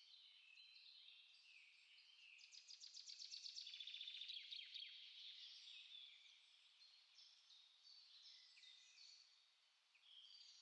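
Small songbirds singing in a faint, dense chorus of short high chirps and whistles. A fast trill from about two and a half seconds in is the loudest part, then the chorus carries on thinly.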